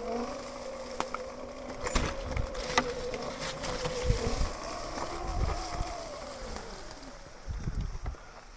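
Sur-Ron electric dirt bike's motor whining while riding, steady, then rising a little and falling away near the end. A few sharp knocks and low thumps from the bike over rough trail.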